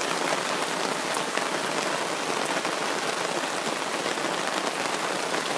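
Heavy rain pouring steadily, a dense even patter of drops falling on a canopy overhead and the ground around it.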